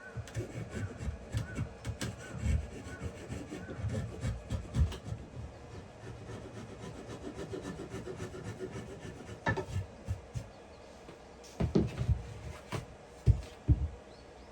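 Wood being rubbed in short, irregular strokes, like hand sanding or rasping a wooden part, with a few sharp knocks of wood near the end.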